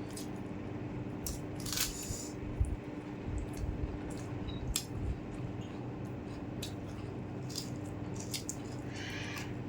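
A person eating rice and spicy chicken curry: wet chewing and squishy mouth sounds, with scattered small clicks and smacks over a steady faint background hum.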